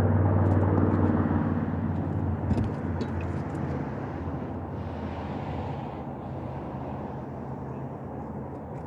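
A motor vehicle's engine hum, loudest at the start and fading away over the first few seconds as it passes, leaving a low steady background rumble.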